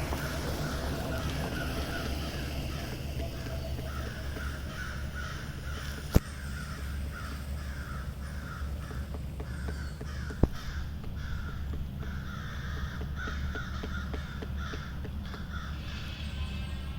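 Crows cawing over and over, about two or three calls a second, with two sharp knocks standing out, one about six seconds in and one about ten seconds in.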